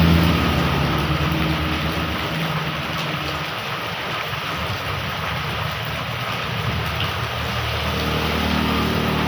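Heavy rain falling steadily, with a motor vehicle's engine humming low, loudest at the start and fading over the first few seconds, then growing again near the end.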